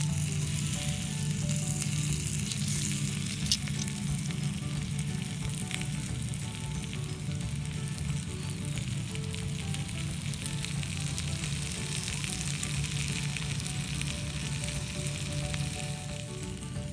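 Wood ear mushrooms frying in a small frying pan: a steady sizzle, with one sharp tick about three and a half seconds in.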